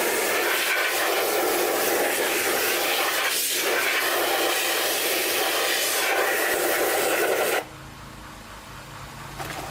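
Loud steady rushing hiss that cuts off abruptly about seven and a half seconds in, leaving a quieter low hum.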